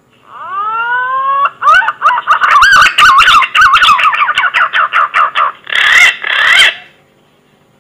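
Green pigeon (punai) whistled song played as a hunting lure call: a rising whistle, then a rapid run of warbling notes, ending with two longer notes.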